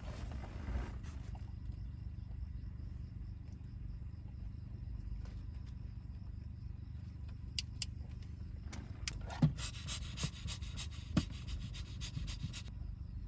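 Strong wind buffeting a parked car, heard from inside as a steady low rumble. Several sharp clicks and knocks come about eight to eleven seconds in, the loudest at about nine and a half seconds.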